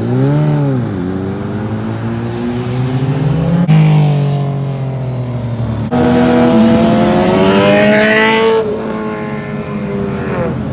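Motorcycle engines revving, the pitch swinging up and down with throttle blips. It gets suddenly louder about six seconds in with a rising rev that drops away a couple of seconds later.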